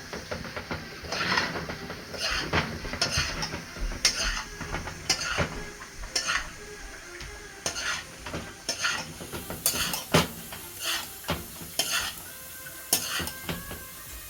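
A spoon stirring and turning fried rice in a cooking pot, with irregular scrapes and knocks against the pot over the rice frying.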